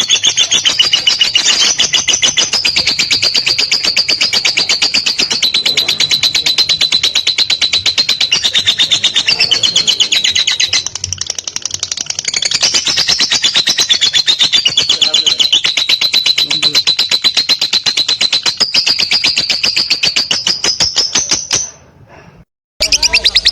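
Lovebird's long ngekek: a loud, continuous, high-pitched chattering trill of very rapid notes. It weakens briefly about eleven seconds in, breaks off near the end, and starts again.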